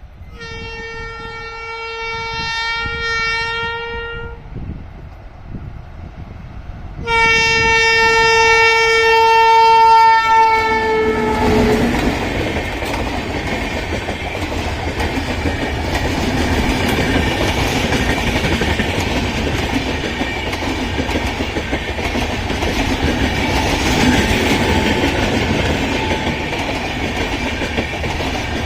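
Indian Railways express train sounding two long horn blasts as it approaches, the second louder and dropping in pitch at its end as the locomotive passes. Then the loud rumble and clickety-clack of the coaches rushing by at speed.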